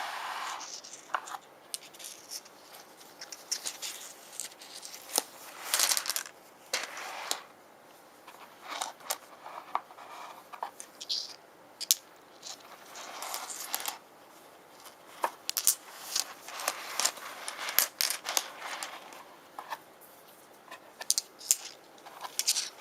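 Rune stones being handled: irregular clicks as they knock against one another, mixed with short scraping and rustling.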